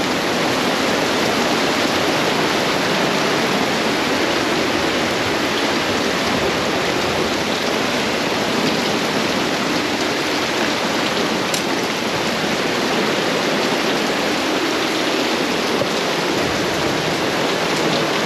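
Heavy rain pouring down steadily during a storm, a loud even wash of water noise that floods the campsite.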